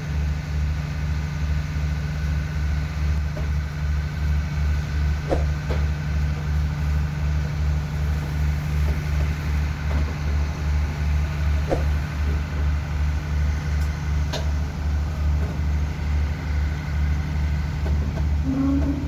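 Diesel train engine idling with a steady low throb that pulses a few times a second, with a few faint clicks over it.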